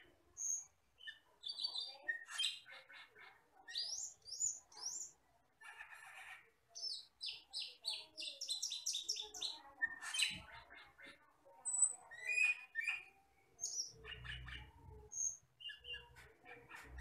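Camperling (cucak keling, an Asian glossy starling) singing: a varied, rapid run of short chirps, clicks and brief whistles with pauses between phrases. Low rumbles come in near the end.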